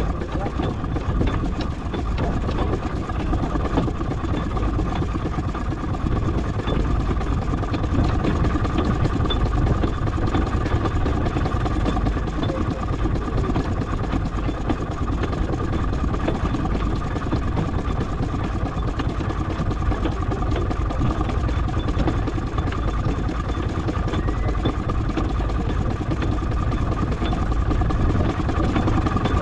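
Miniature steam traction engine running steadily while crawling along in bottom gear, a continuous mechanical clatter with a steady high tone held throughout.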